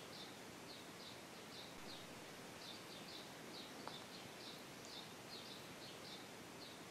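A small bird chirping faintly and repeatedly, two or three short high chirps a second, over a steady hiss of room tone, with one faint click about halfway through.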